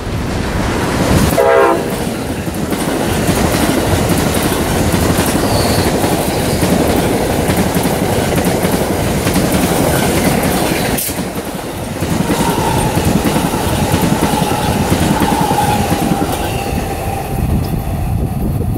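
Amtrak passenger train led by an ACS-64 electric locomotive passing at speed. About a second in, the horn gives a short blast that drops in pitch as the locomotive goes by. Then comes the steady rush and clickety-clack of the Amfleet and Viewliner cars rolling past, with a faint thin whine later on.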